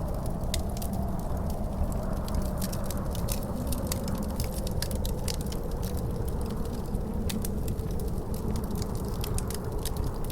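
Wood fire crackling in a fireplace with frequent sharp pops, over a steady low rumble and a wavering howl of wind that slowly rises and falls.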